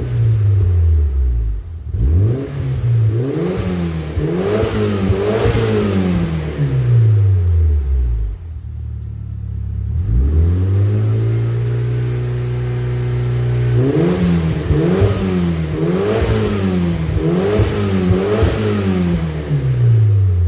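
1998 Mitsubishi Lancer Evolution V GSR's turbocharged 4G63 inline-four revved through an HKS aftermarket exhaust. A series of throttle blips drops back to idle, then the revs are held steady for a few seconds. A quicker run of blips, about one a second, follows and falls back to idle at the end.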